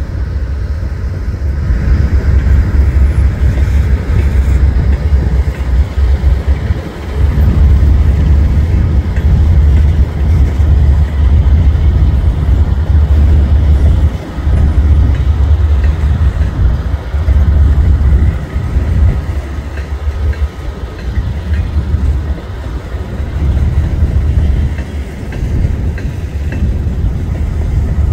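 Union Pacific diesel locomotives pulling an empty coal train past at close range: a loud, heavy low rumble of the engines and rolling cars that swells and dips irregularly.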